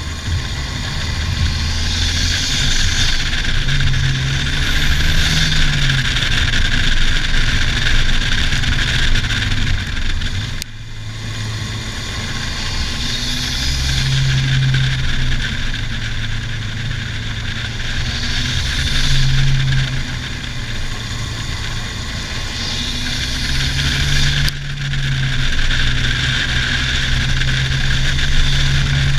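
Mazdaspeed6's turbocharged 2.3-litre four-cylinder engine running hard on a twisty road, its note rising and falling again and again as it accelerates and eases off, over steady road and wind noise picked up by a camera mounted low beside the front wheel. The sound breaks off abruptly about eleven and twenty-four seconds in.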